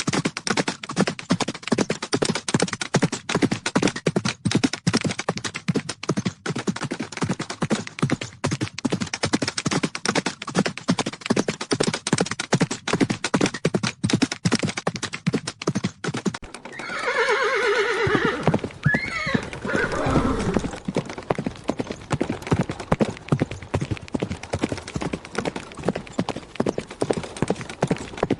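Horses galloping: a fast, dense drumming of hooves. About sixteen seconds in, a horse lets out a long neigh with a shrill rise near its end, and the galloping hooves carry on.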